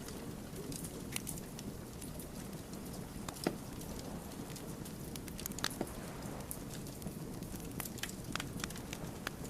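Wood fire crackling: a steady low rustle of burning logs with scattered sharp pops, the loudest about three and a half seconds in.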